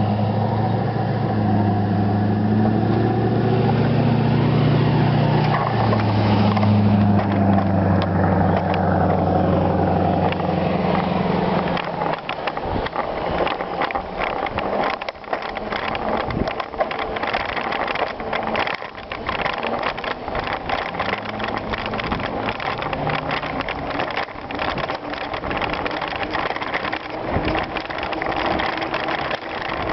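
A motor vehicle's engine running close by for about twelve seconds, its pitch rising and then dropping. It then gives way to a dense, irregular rattling and clattering, like a bicycle rolling over rough gravel.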